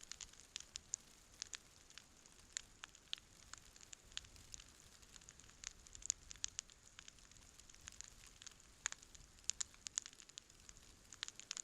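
Wood campfire crackling: irregular sharp pops and snaps, several a second at times, over a faint steady hiss.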